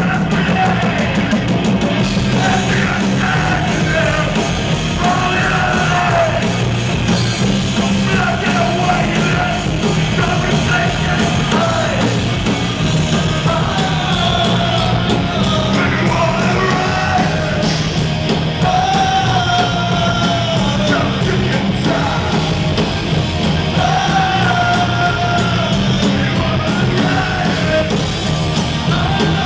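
Punk rock band playing live at full volume, with a singer yelling and singing over the band.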